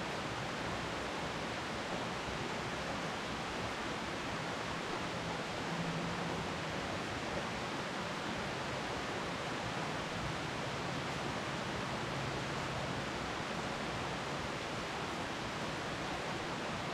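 Steady spring rain falling on dense foliage, an even hiss that holds at the same level throughout.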